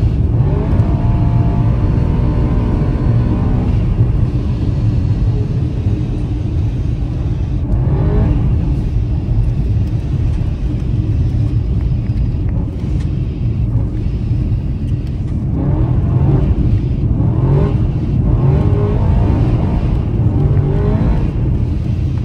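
BMW E9x M3's V8 engine heard from inside the cabin, its revs rising and falling repeatedly under throttle over a steady low rumble.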